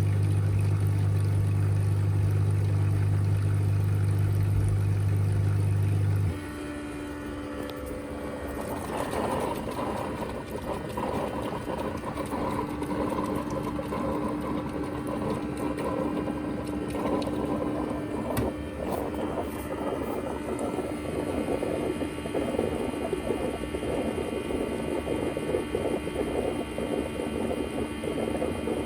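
Ecovacs Deebot T10 Turbo robot vacuum running. A loud steady low hum cuts off suddenly about six seconds in, then a quieter steady whir continues, with a higher held tone and a rough crackling noise with a few clicks.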